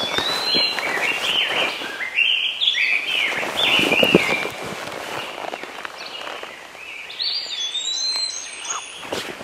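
A songbird chirping in quick runs of short, high notes that step and slide up and down, in two spells, with scattered rustling clicks.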